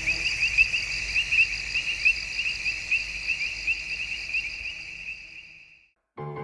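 Crickets chirping in a steady, rapidly pulsing chorus that fades out over the last couple of seconds to a moment of silence, then music starts just before the end.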